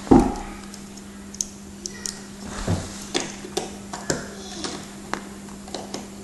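Plastic LEGO parts clicking and knocking as the Skull Truck model is handled, with a heavier knock at the start, over a steady low electrical hum.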